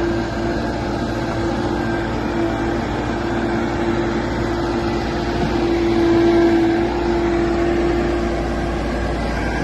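2003 JCB 214 backhoe loader's diesel engine running steadily, with a steady whine over the low drone; it swells briefly about six seconds in.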